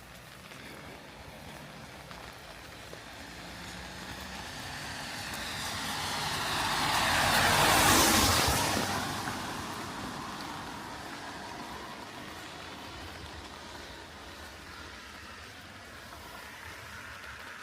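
A car passing on a wet road, its tyre hiss swelling to a peak about eight seconds in and fading away, over steady rain.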